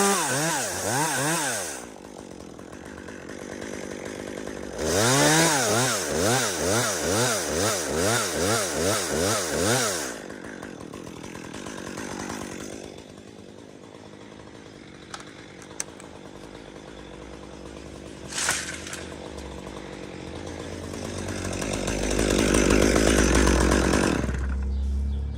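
Chainsaw revving: its pitch climbs and falls at the start, then goes up and down in quick repeated revs for about five seconds before dropping back to a quieter running sound. A louder low rumbling noise comes in near the end.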